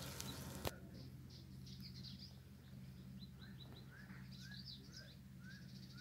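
Faint bird calls: from about halfway through, a series of short rising chirps repeated about twice a second, with quicker high notes above them, over a low steady hum. A single sharp click sounds under a second in.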